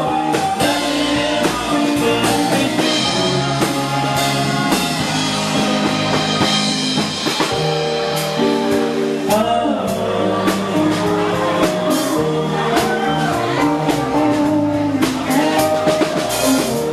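Live band playing a song: drum kit keeping a steady beat under a bass line, with sustained keyboard chords and electric guitar on top.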